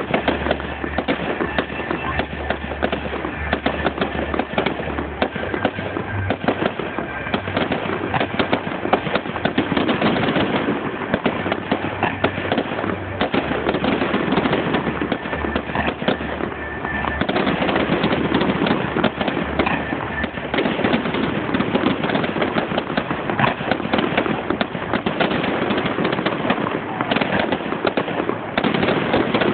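Fireworks display: a dense, continuous barrage of cracks and bangs from bursting shells and crackling effects, heavier in the second half.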